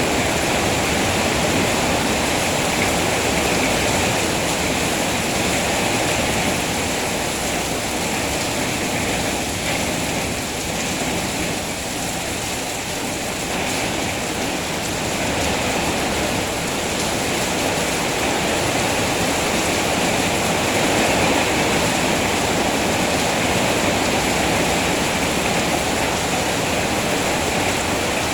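Steady rainfall, a dense even hiss with no breaks, easing slightly in level about twelve seconds in.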